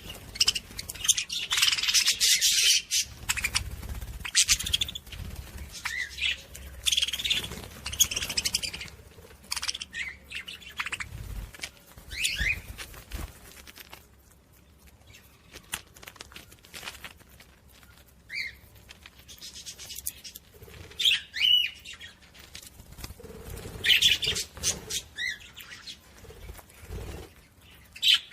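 Small pet parrots chirping and chattering in repeated bursts of high, quick calls, with a quieter lull about halfway through.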